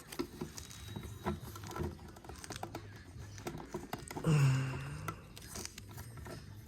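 Small plastic toy parts handled and pressed into place, making scattered light clicks and taps. A short hummed voice sounds about four seconds in.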